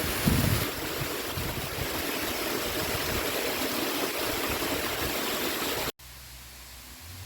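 Low-flowing waterfall: water running and splashing over rocks as a steady rush. It cuts off abruptly about six seconds in, leaving only a faint hiss.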